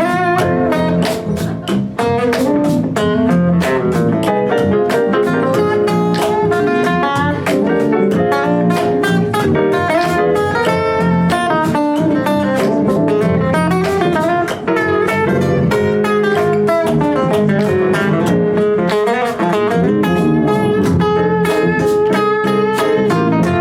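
Live blues-rock band playing an instrumental break: a lead guitar solo of quick melodic runs over bass and drums.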